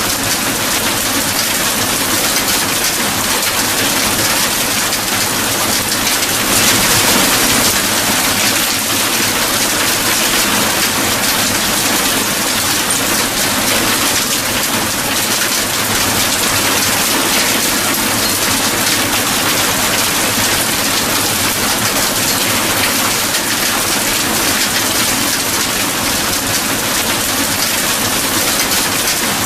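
Steady heavy rainfall, an even hiss of rain on surfaces, swelling briefly about seven seconds in.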